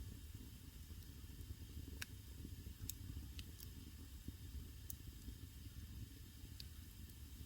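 Wood fire burning in a traditional Korean agungi firebox: a steady low rumble of the flames with a few sharp, scattered crackles and pops.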